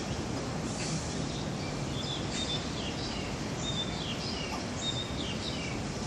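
Bird calling in a quick run of short, high whistled notes, several sliding downward, starting about two seconds in, over a steady low background hum.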